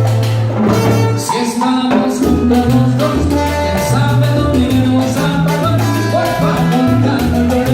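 Live salsa band playing, with a bass line stepping between low notes under higher melodic lines and a steady percussion beat.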